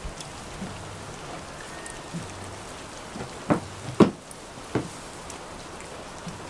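Steady rain falling, with three louder knocks close together a little past the middle.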